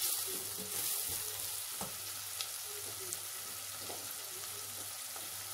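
Onion-and-spice masala frying in oil in a stainless steel pot, a steady sizzle, stirred with a wooden spoon.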